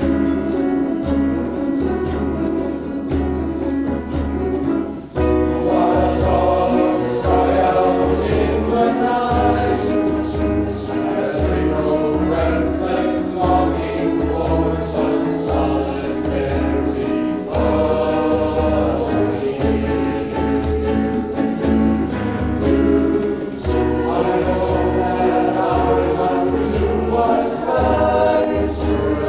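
Community choir singing in parts over a steady rhythmic beat.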